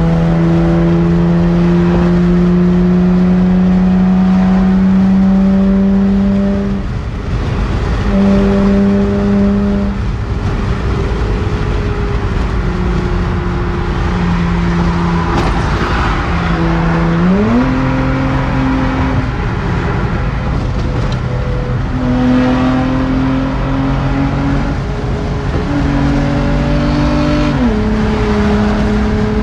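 Nissan Altima's engine droning steadily with road and tyre noise, heard from inside the cabin at highway speed. The engine note holds one pitch for seconds at a time, rises quickly about two-thirds of the way through and drops back near the end.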